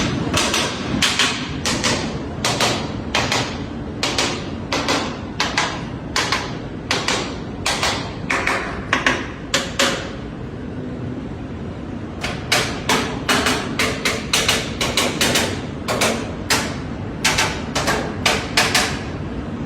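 Inspection hammer tapping on the metal parts of a bullet train's bogie to check bolts and fittings for looseness: a steady series of sharp metallic taps, a little over one a second. They pause briefly about halfway, then resume.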